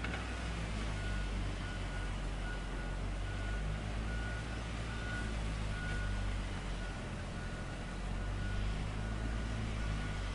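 Heavy machinery engine running steadily, with a warning beeper sounding short repeated beeps over it.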